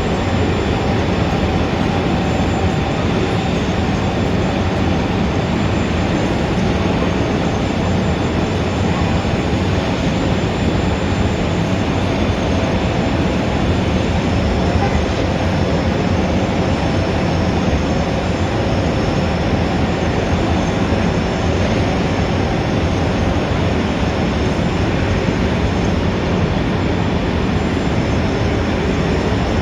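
Steady city street traffic ambience: a continuous, even rumble and hiss of traffic with no distinct events standing out.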